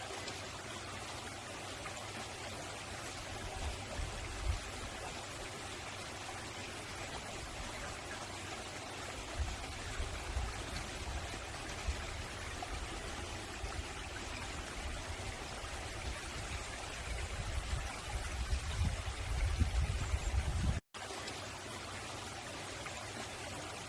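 Mountain stream running over rocks, a steady rushing with a low rumble that comes and goes. The sound cuts out for an instant about three seconds before the end.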